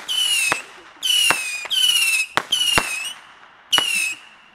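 Whistling fireworks going off in quick succession: about five short whistles, each about half a second long and sliding slightly down in pitch, with sharp cracks among them.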